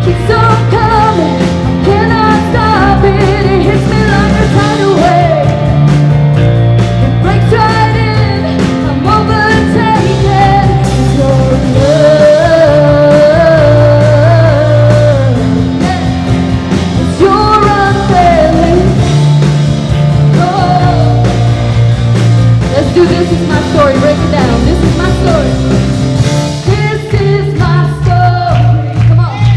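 Live church worship band playing a rock-style song: a singer's melody over held bass notes and a steady drum beat.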